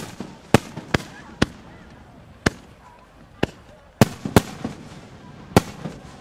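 Peony firework shells bursting overhead at close range: a string of about nine sharp bangs in six seconds at uneven intervals, some coming in quick pairs.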